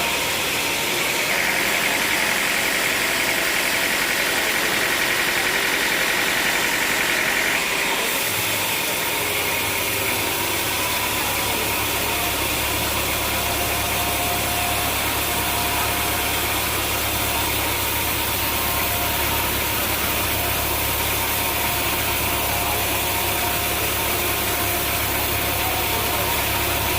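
An engine running steadily with a constant noisy hiss. About eight seconds in its sound changes and a low hum comes up and holds.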